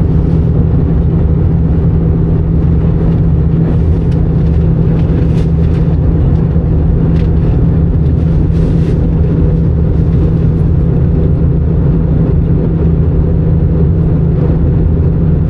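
Steady, loud in-flight cabin noise of an Airbus A319 during descent: a continuous low rumble of the jet engines and rushing air, with a constant low hum.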